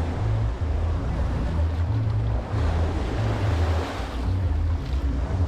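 Caribbean Sea surf washing steadily onto the beach, with wind buffeting the microphone in uneven low rumbles.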